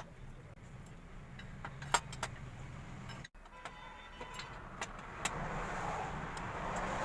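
Small metal clicks and clinks of a hand tool on the bolts of a scooter engine's crankcase as the 8 mm bolts are tightened. A broad rushing noise swells over the last couple of seconds.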